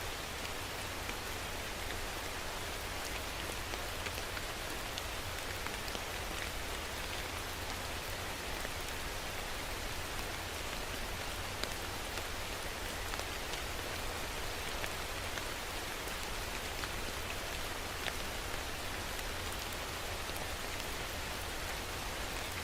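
Steady rain falling on a surface, an even hiss dotted with scattered sharp ticks of individual drops.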